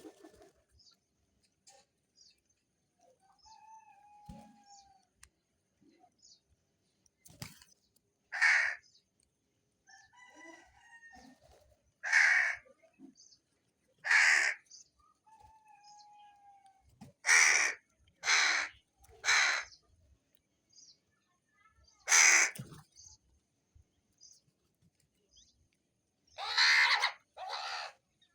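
Crow cawing: about nine loud, harsh caws a few seconds apart, some in quick runs of two or three, with fainter calls of other birds between them.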